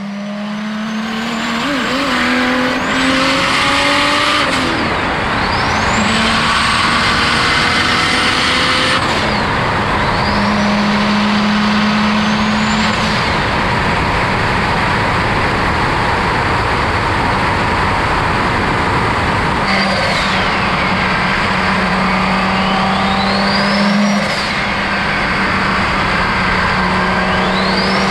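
Turbocharged BMW E36 with an M52 straight-six engine, pulling hard through several gears: a high turbo whine climbs with each pull and drops off at each shift. The engine sound stays loud throughout.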